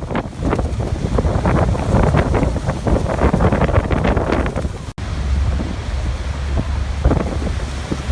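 Waterfall rushing steadily, with wind buffeting the microphone in a deep rumble. The sound drops out for an instant about five seconds in.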